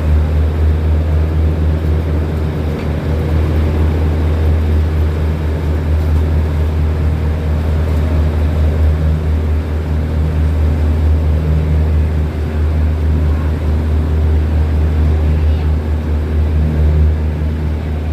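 Diesel train engine running with a steady, loud low drone as the train moves out of the station.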